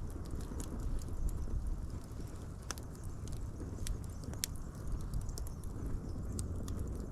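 Wood fire burning, with a low steady rumble of flames and irregular sharp pops and crackles from the burning wood, a few of them louder, about 2.7 s and 4.5 s in.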